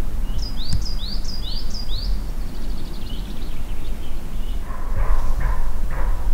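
A songbird singing: about four rising whistled notes, each followed by a brief level note, then a quicker falling trill. Near the end come three short rough sounds, all over a steady low rumble.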